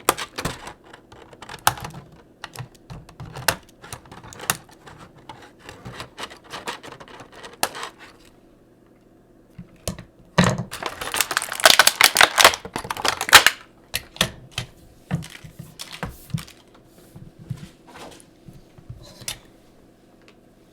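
Hard plastic toy parts clicking and clattering as a Transformers action figure and its small accessory guns are handled and fitted together. About ten seconds in comes a denser burst of rattling and clicking lasting about three seconds, the loudest part; scattered single clicks follow.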